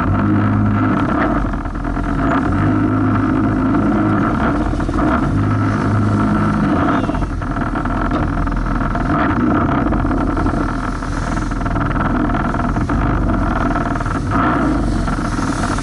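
Jet ski engine running under way, its note swelling and easing every second or two, over a constant rush of wind and water.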